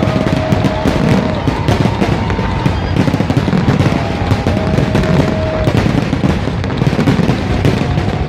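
Fireworks going off in a dense, continuous barrage of bangs and crackles over a low rumble.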